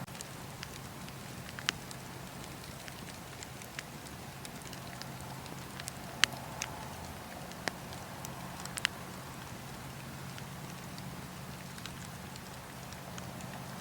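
Wood fire burning in a fireplace: a steady low hiss with scattered sharp pops and crackles, the loudest about a quarter and two-thirds of the way through.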